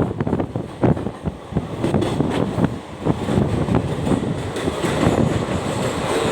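Moving vehicle heard from inside, with a steady rumble, wind rushing on the microphone, and irregular knocks and rattles.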